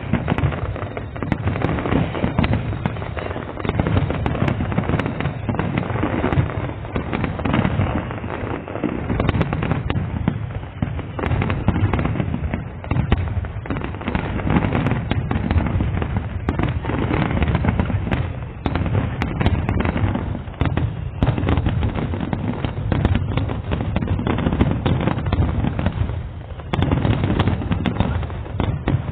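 Fireworks display: a dense, continuous barrage of overlapping shell bursts with a heavy low rumble, easing briefly about 26 seconds in.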